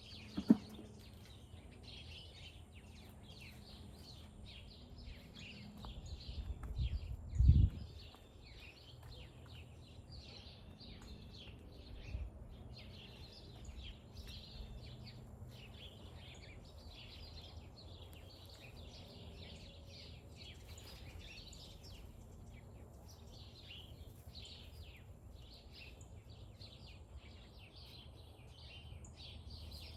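Birds chirping continuously in the background, many short calls. There is a sharp knock about half a second in, a louder dull thump around seven seconds in, and a softer one near twelve seconds.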